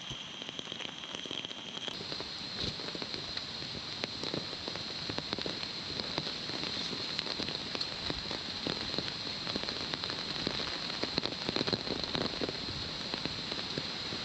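Heavy rain falling, a dense, steady patter of drops hitting close by.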